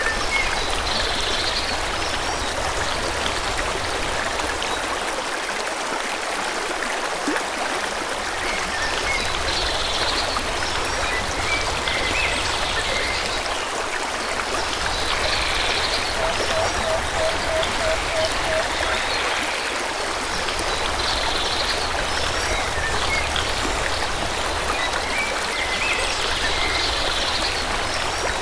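Forest stream flowing steadily, with birds chirping every few seconds over the water. About two-thirds of the way through, a quick run of about eight short, low, evenly spaced notes.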